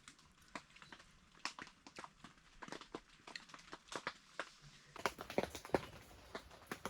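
Spoon and chopsticks tapping and clinking against a pot and bowl while eating stew: scattered light clicks, two or three a second, at an uneven pace.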